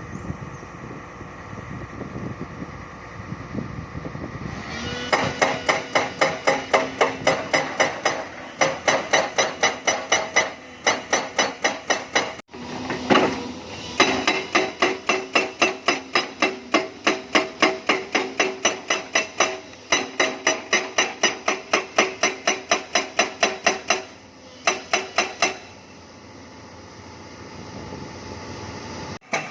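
Excavator-mounted hydraulic breaker hammering limestone rock, ringing blows at about three a second in runs of several seconds with short pauses. The excavator's engine is running underneath, and it is heard alone for the first few seconds before the hammering starts.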